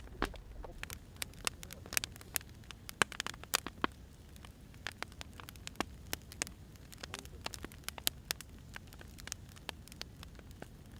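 Burning firewood crackling, with irregular sharp pops and snaps over a low steady hiss.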